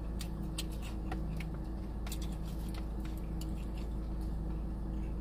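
Faint scattered clicks and smacks of someone eating chicken wings, over a steady low hum.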